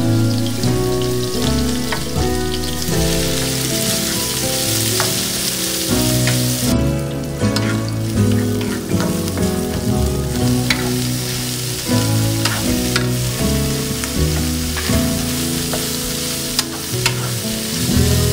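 Food sizzling steadily in hot oil in a pan, with scattered clicks and scrapes of a spatula stirring it against the metal. Background music with held low notes plays underneath.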